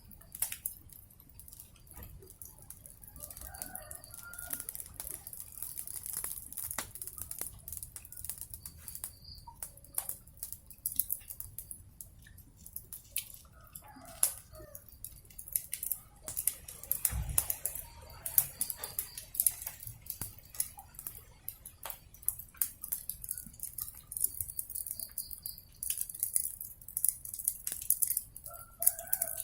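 Wood fire crackling with frequent sharp pops over a steady high hiss, while chickens cluck briefly three times: a few seconds in, around the middle, and at the very end.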